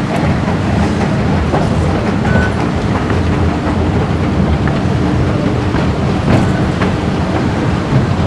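Singapore MRT electric train running on the track: a steady rumble of wheels on rail with scattered faint clicks.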